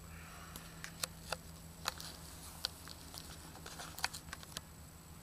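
Scattered light clicks and taps, about a dozen at irregular intervals, from hands handling the small glass box and its lid, over a steady low hum.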